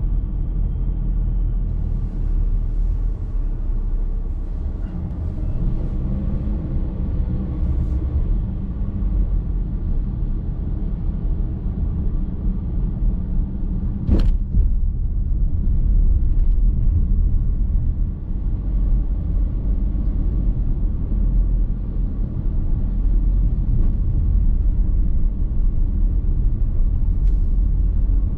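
Road noise heard from inside a moving car's cabin: a steady low rumble of tyres and drivetrain. A single sharp click sounds about halfway through.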